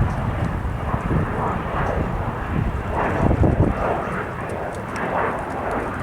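Jet aircraft engines running, a steady rushing roar, with gusty wind buffeting the microphone.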